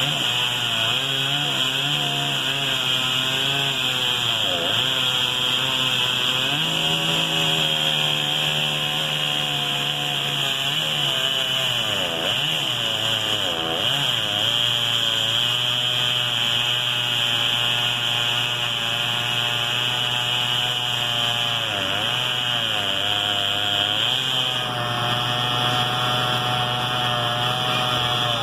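Echo CS-670 two-stroke chainsaw running at high revs as it cuts through an oak trunk. The engine pitch sags under the load of the cut and recovers about three times.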